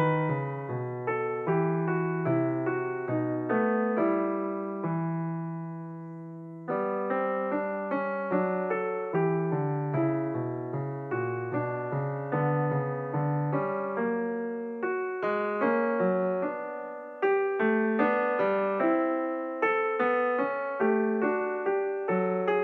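Background piano music: notes and chords struck one after another, with a chord held and left to fade about five seconds in before playing resumes.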